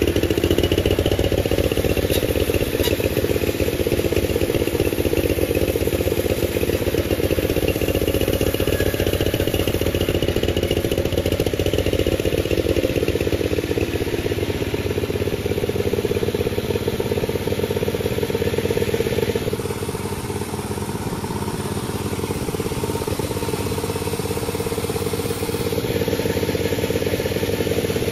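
Panda36 sawmill running steadily as it saws through a durian log, with a machine drone and rattle. About two-thirds of the way through the sound drops a little and thins, then fills out again near the end.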